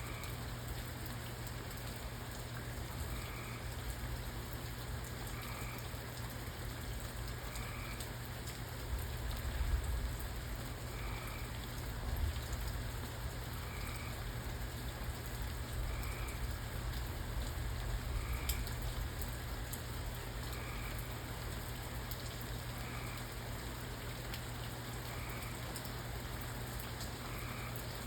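Steady rain falling, with a faint short chirp repeating about every two seconds and a low rumble swelling briefly about ten seconds in.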